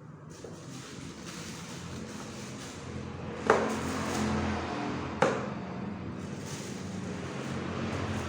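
A motor running steadily and slowly growing louder, with two sharp knocks about a second and a half apart near the middle.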